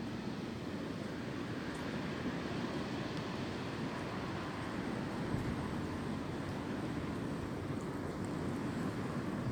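Wind blowing steadily, a continuous rushing noise with a low rumble.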